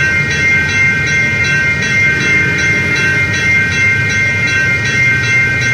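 Passing train, loud and steady: a low rumble under a ringing tone that pulses about two and a half times a second.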